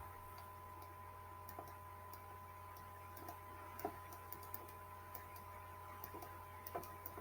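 Faint, irregular ticks and clicks over a steady low hum, with no clear rhythm.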